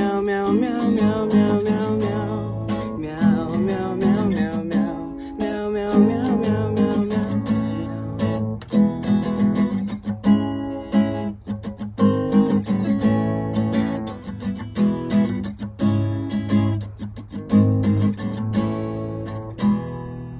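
Acoustic guitar strummed in a steady rhythm, chords ringing between strokes, dying away near the end.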